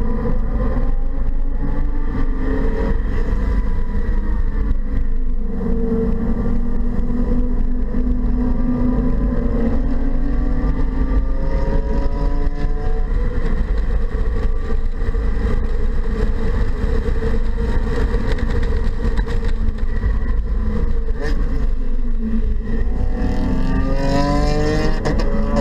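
2015 BMW 228i's turbocharged 2.0-litre four-cylinder engine driven hard on track, heard from inside the cabin over steady road and wind noise. Its pitch climbs and drops several times and rises steeply near the end.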